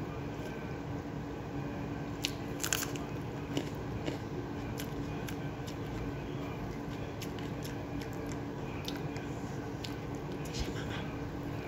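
Close-up eating sounds of a person eating rice by hand: chewing with scattered crunchy bites, the sharpest cluster of crunches about two and a half seconds in, over a steady low hum.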